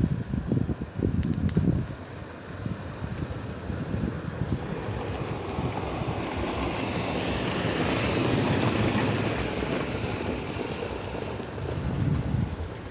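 Wind buffeting the microphone for the first couple of seconds, then a vehicle passing on the street: a rushing noise that swells to a peak about eight seconds in and fades away.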